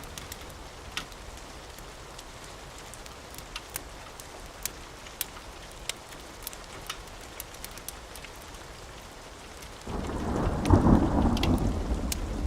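Steady rain with scattered sharp ticks and crackles, then a loud rumble of thunder breaking in about ten seconds in and rolling on.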